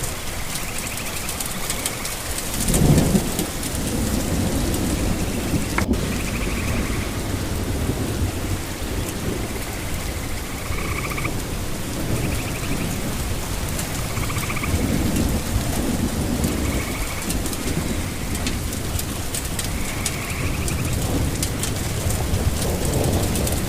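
Steady heavy rain with low rolls of thunder, the loudest about three seconds in and others in the middle and near the end.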